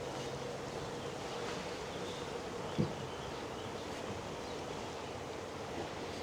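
Outdoor ambience: a steady hum and an even hiss, with one short low sound falling in pitch about three seconds in.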